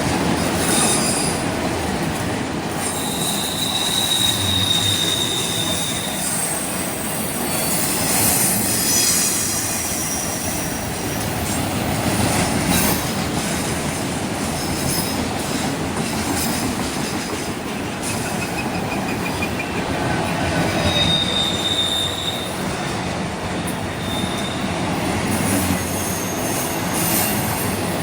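A train rolling past without pause, its wheels squealing against the rails in thin high tones, once about four seconds in and again near twenty-one seconds in.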